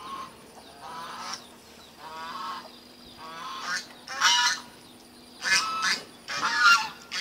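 Birds honking repeatedly, one short call about every second, the calls growing louder toward the end.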